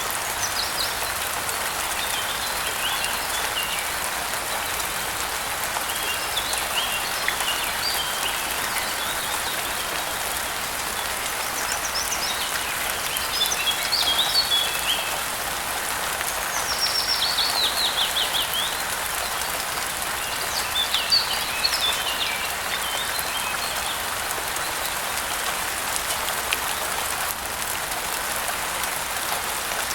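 Steady rain hiss with birds chirping on and off over it, in several short bouts, one of them a quick run of falling notes a little past the middle.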